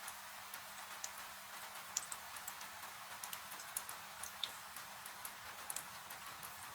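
Fireplace fire crackling, with irregular sharp pops and snaps, over a steady hiss of rain falling.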